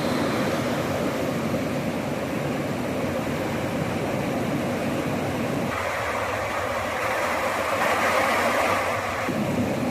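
A steady rushing noise. From about six seconds in until about nine seconds, its low part drops away and it turns brighter and hissier, then returns to how it was.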